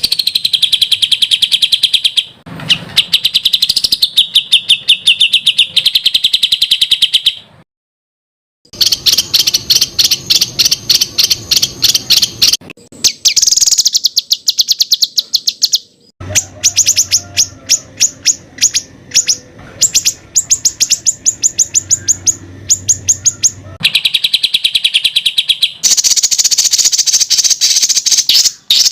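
Songbird masteran recording: rapid trains of sharp repeated notes, many a second, known as tembakan. The phrases change pitch every few seconds, and there is a brief gap of silence about eight seconds in.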